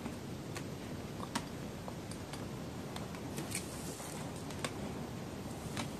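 Close-up chewing of a candied strawberry: its hard, sticky candy shell clings to the teeth and makes scattered sharp clicks and smacks, about two a second, over a steady background hiss.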